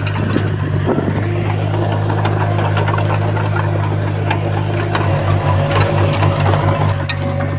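Diesel engine of heavy earthmoving equipment running steadily, with scattered clicks and clanks. From about five seconds in, the engine note throbs rapidly for about two seconds, and a faint steady whine sits above it in the second half.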